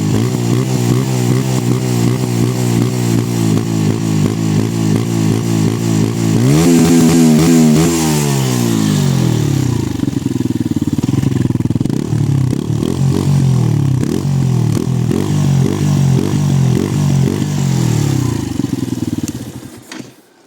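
Benelli 125S motorcycle engine on its stock exhaust, running: a steady idle, one short rev about six seconds in that falls back over a couple of seconds, then an unsteady idle until the engine cuts off near the end.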